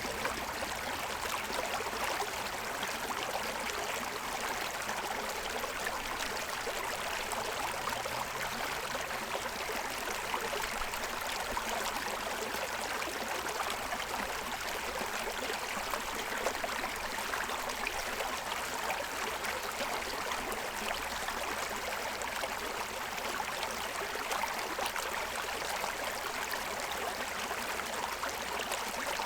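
Forest stream running and splashing over the stones of its bed, a steady rushing babble.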